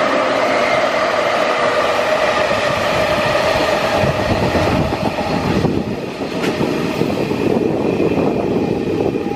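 Container wagons of a freight train rolling past on the rails: a steady rumble of wheels on track. A ringing tone sits over it through the first half, and the sound eases somewhat about six seconds in as the wagons draw away.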